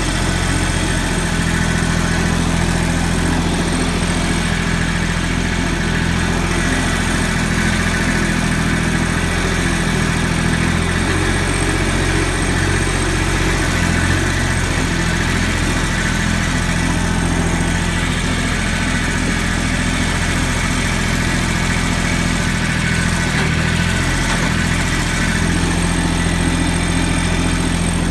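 Yanmar YM169D compact tractor's diesel engine running steadily, its pitch shifting slightly now and then.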